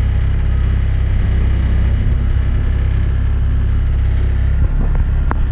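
A small kicker outboard motor running steadily at trolling speed, a loud, even low rumble, with a light click near the end.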